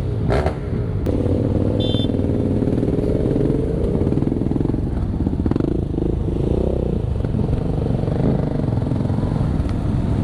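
Motorcycle engines running in a large group ride, a steady rumble whose pitch rises and falls as the bikes speed up and slow down. A brief high beep sounds about two seconds in.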